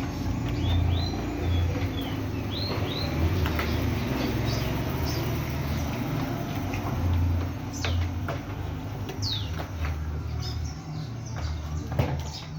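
Small birds chirping in short, curved calls a few times over a low hum that comes and goes, with a few sharp clicks of handling, one near the end.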